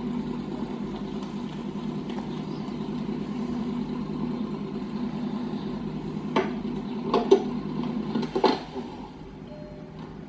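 Cartoon car engine running steadily, with a few sharp clanks and knocks about two-thirds of the way through. The engine then cuts out.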